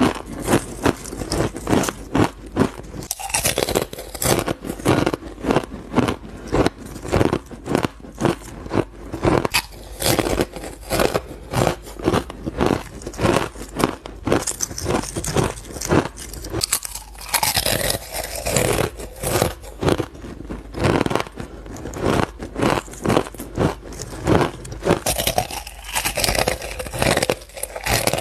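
A person biting and chewing frozen ice close to the microphone, a steady run of crisp crunches at roughly two a second.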